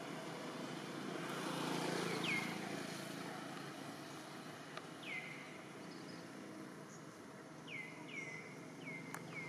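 Steady hum of distant engine noise that swells briefly near the start, with a bird giving short chirps that drop sharply in pitch: one about two seconds in, one about five seconds in, and four in quick succession near the end.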